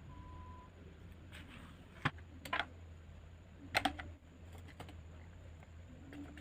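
Eating a crunchy raw garden salad: a few short, sharp, crisp crunches and clicks, the loudest about two seconds in and just before four seconds, over a low steady hum.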